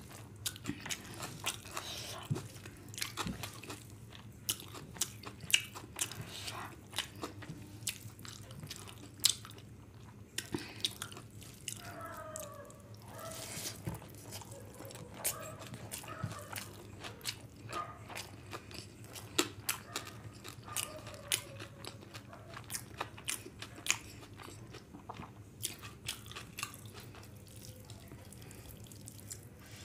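Close-miked chewing of fried rice and chicken curry eaten by hand: many sharp, wet mouth clicks and smacks, with the squish of food being handled.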